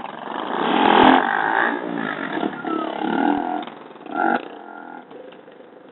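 Motorcycle engine revving, swelling to its loudest about a second in and then easing off, with a short burst of revs just after four seconds.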